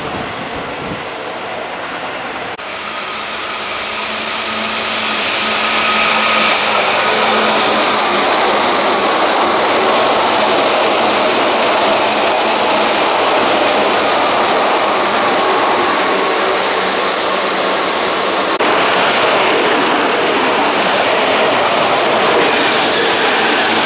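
Electric commuter trains running past at close range: a loud, steady rush of steel wheels on rail with a faint steady hum from the traction equipment. The sound changes abruptly twice, about two and a half seconds in and about eighteen seconds in, as one train gives way to the next.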